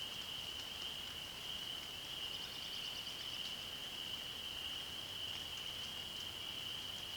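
Chorus of frogs calling together, merging into one steady high-pitched drone, with a faint hiss of background noise beneath it.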